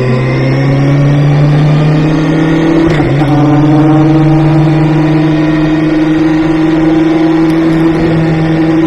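Kawasaki Ninja ZX-6R's inline-four engine running with a steady note that slowly glides in pitch, with a brief break and change in pitch about three seconds in.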